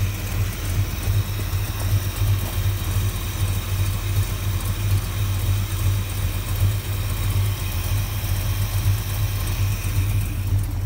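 A 1973 Dodge Dart's 383 big-block V8, bored .040 over and fitted with headers and an Edelbrock 650 carburetor, idling steadily with an even low pulse.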